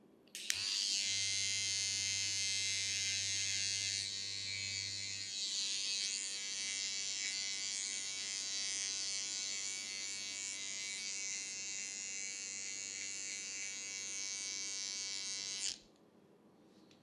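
A small electric barbering tool runs steadily for about fifteen seconds, switched on just after the start and cut off sharply near the end. It is a motor hum under a strong hiss.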